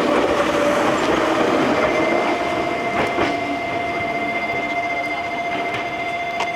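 Electric train running through the station, its wheels holding a steady high squeal on the curved track, with a few sharp clicks over rail joints and the running noise slowly fading.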